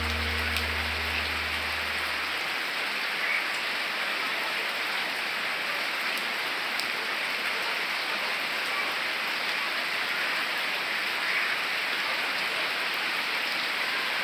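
Steady rain falling, an even hiss of drops with a few sharper drop ticks.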